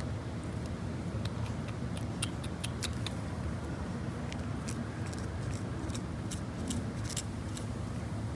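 A cat licking meat puree from a plastic squeeze packet: a run of quick, irregular little clicks and smacks of its tongue, over a steady low rumble.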